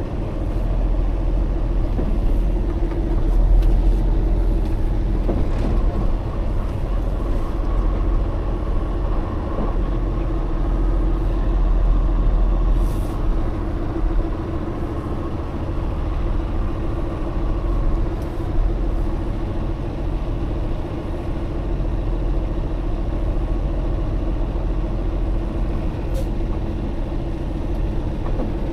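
Heavy truck's diesel engine running steadily with a constant hum over a low rumble.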